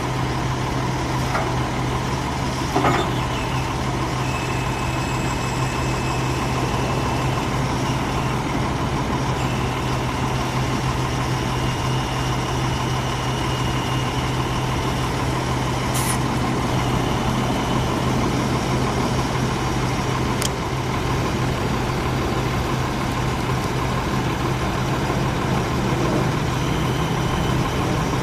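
A 2006 Freightliner M2 106 truck's 6.4-litre six-cylinder diesel idling steadily, with a brief knock about three seconds in.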